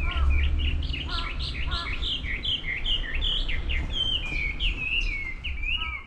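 Wild songbirds singing in a fast, unbroken run of short chirping notes, with a few lower notes in the first two seconds. A steady low rumble runs underneath.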